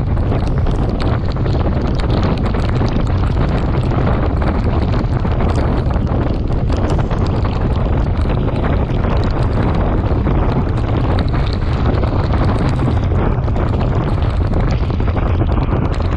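Wind buffeting the microphone of a camera on a moving bicycle: a steady, loud low rumble with a hiss above it.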